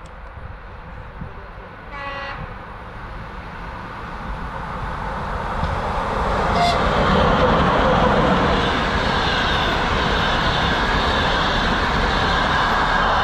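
A train sounds a short horn blast about two seconds in. The noise of a train then builds and becomes a loud, steady rumble as it passes close by.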